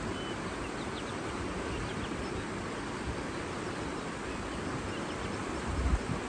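Steady rushing of water, with a few faint, short bird chirps in the first half. A brief low rumble, the loudest moment, comes just before the end.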